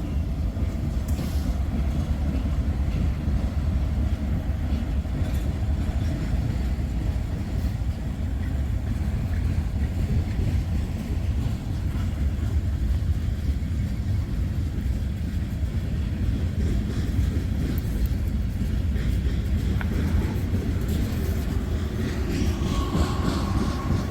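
Freight train led by an EMD GP40-2 diesel locomotive rolling past at close range: a steady, unbroken rumble of wheels on rail. A thin whine joins in near the end.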